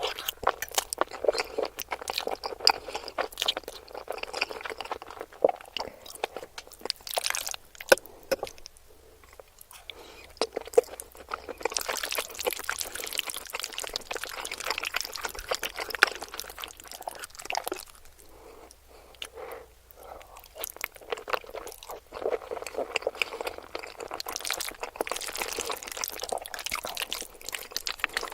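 Close-miked eating sounds: irregular chewing, crunching and wet, sticky mouth noises from food being eaten, with a denser, hissier stretch about halfway through.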